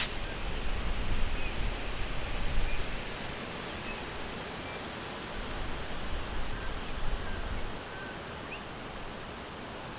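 Forest ambience: a steady, even background noise with a low rumble that swells in the first few seconds and again a little past the middle. A few faint, short bird chirps are scattered through it.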